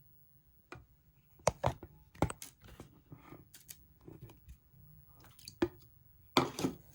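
Clear slime being squeezed and pressed by hand, giving irregular sticky clicks and crackling pops, with the loudest cluster near the end.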